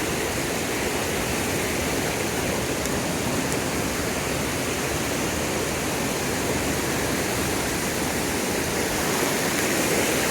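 Steady rush of a rain-swollen creek flowing over rocks, running high.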